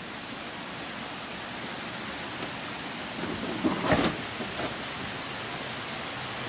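Heavy rain pouring down, a steady even hiss, with a brief faint sound and a sharp tap about four seconds in.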